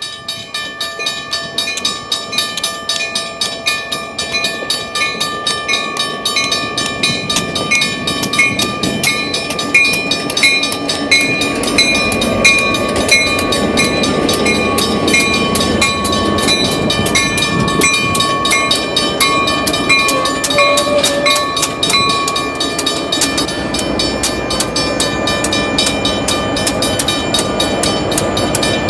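Maine Northern Railway train rolling past, its wheels clicking rapidly and evenly over rail joints, growing louder over the first ten seconds or so. A steady high-pitched ringing or squeal runs with the clicks and fades out about two-thirds of the way through.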